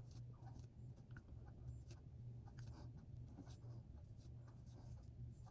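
Faint, irregular scratching strokes of a comb being dragged through a beard, over a steady low hum.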